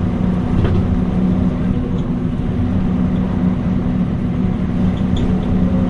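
Mitsubishi Fuso Aero Star K (U-MP218M) city bus running along at a steady engine speed, its V8 diesel giving a steady low drone, heard from inside the passenger cabin.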